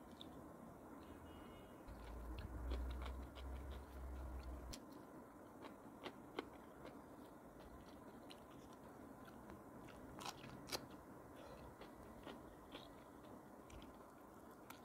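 Close-miked chewing and crunching of crisp raw lettuce stalks, faint, with scattered crisp clicks. A low rumble about two seconds in lasts a few seconds and is the loudest part.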